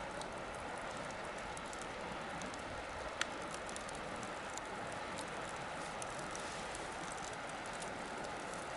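Wood fire burning with a steady hiss and scattered small crackles, one louder snap about three seconds in.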